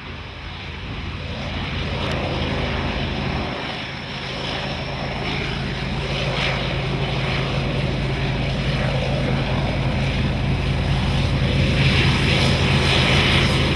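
Diesel locomotive engines droning with a steady low hum, growing gradually louder.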